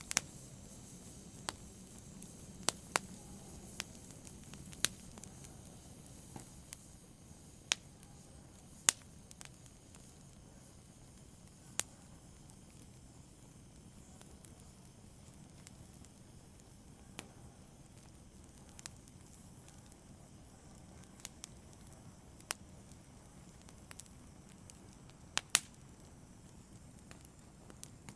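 Wood fire burning in a fireplace, with sharp crackles and pops at irregular intervals over a soft hiss, the pops thicker in the first ten seconds.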